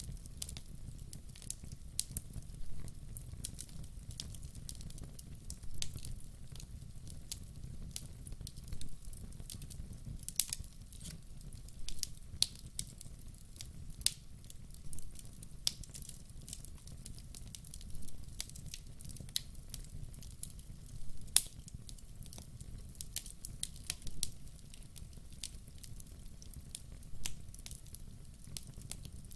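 Burning logs crackling in a wood fire: irregular sharp pops, a dozen or so louder than the rest, over a steady low rumble.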